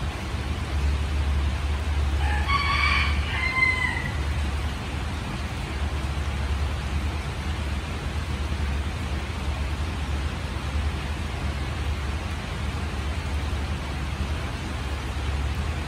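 Steady rain falling, with a constant low rumble underneath. About two and a half seconds in, a brief pitched call sounds for about a second and a half, ending in a short glide.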